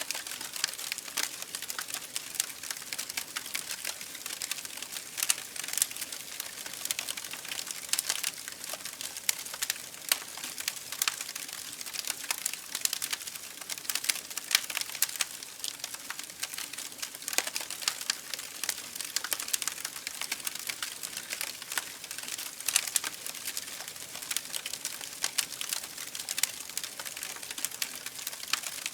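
Campfire crackling: a constant run of small sharp pops and snaps from burning wood, with a few louder pops now and then.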